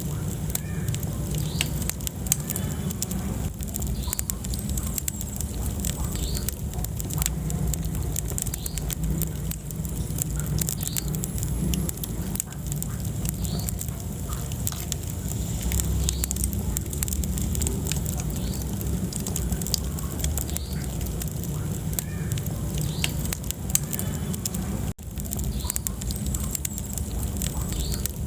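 Wood fire burning in a fireplace: a steady low rumble of flames with frequent sharp crackles and pops. The sound drops out for an instant near the end.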